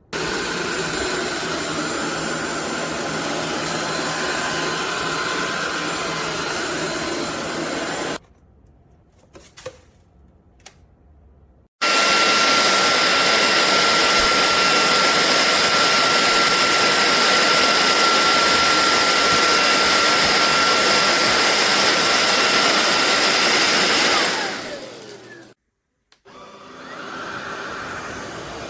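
SunSare X11 cordless stick vacuum motor running steadily, then switched off about eight seconds in, followed by a few clicks. It starts again about four seconds later, louder, with a steady high whine, runs for about twelve seconds, then winds down with falling pitch. Near the end it runs again, more quietly.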